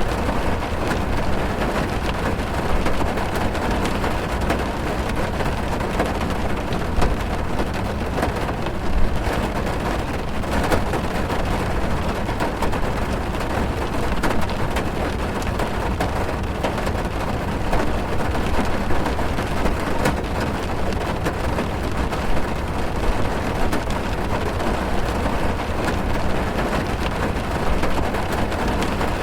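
Heavy rain drumming on a car's roof and windows, heard from inside the car: a steady, dense patter of drops over a deep rumble.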